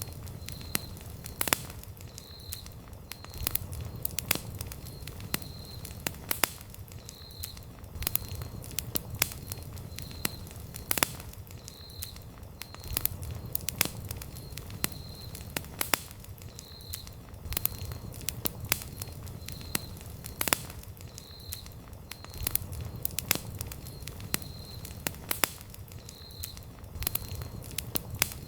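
Wood campfire crackling, with frequent sharp pops and snaps over a steady low rumble of flames. A faint short high chirp repeats about once a second throughout.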